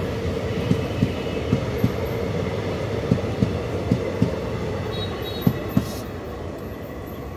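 Passenger express train coaches passing at speed: a steady rolling rumble of wheels on rails, with the wheels clacking over a rail joint in pairs of knocks about a third of a second apart. The rumble fades near the end as the last coach goes by.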